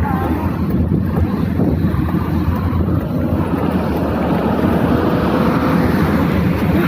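Steady low wind rumble buffeting the microphone of a bicycle-mounted or rider-worn camera while cycling along a road.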